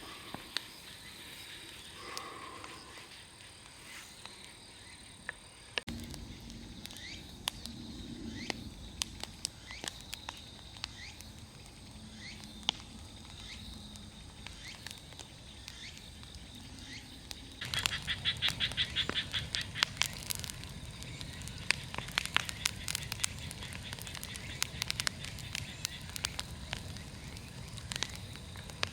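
A large wood bonfire crackling with sharp pops over a steady high insect drone. The crackling grows denser and louder about two-thirds of the way through.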